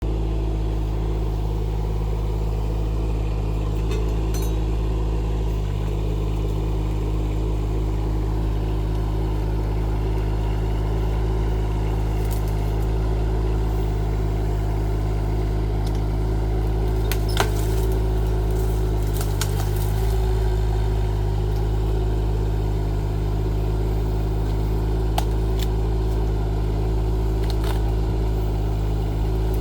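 Rippa R15 mini excavator's engine running steadily under work, with a few short sharp clicks, one louder than the rest a little past the middle.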